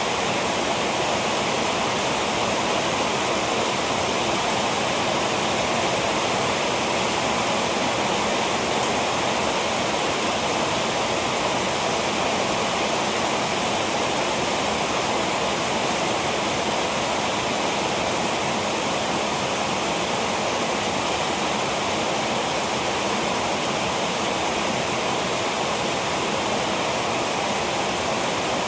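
Heavy rain falling, a steady, unbroken rush.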